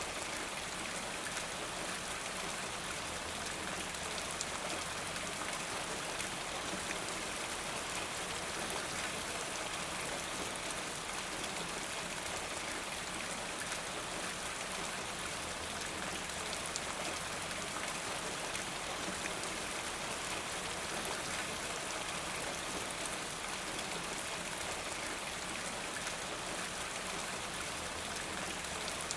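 Steady rainfall, an even hiss that does not let up or change.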